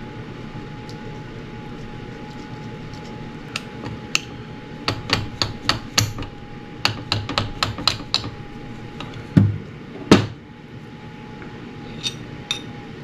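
Hand tools knocking and tapping on metal engine parts during a two-stroke top-end teardown. There are about a dozen sharp, uneven taps, then two heavier knocks about nine and ten seconds in and two light clicks near the end, over a faint steady hum.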